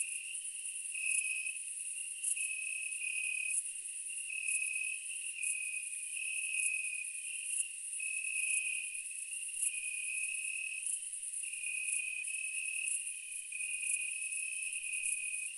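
Insects calling in a steady chorus: a high continuous buzz, over a lower trill that keeps stepping between two close pitches.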